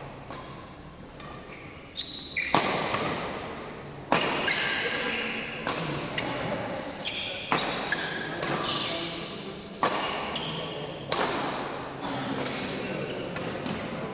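A rally of ball strikes in a doubles match, a sharp hit about every one and a half seconds ringing in a large hall, with short high squeaks between the hits.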